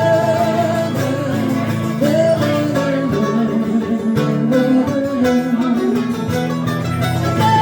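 Live acoustic folk ballad between sung lines: guitar accompaniment under a sustained, gliding melody line.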